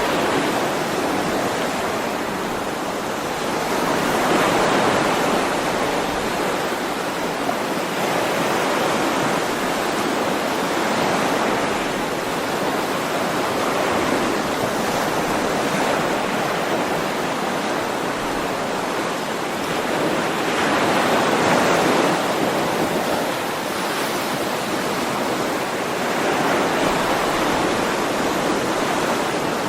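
Ocean waves washing onto a shore, a steady rush of surf that swells and ebbs every five or six seconds.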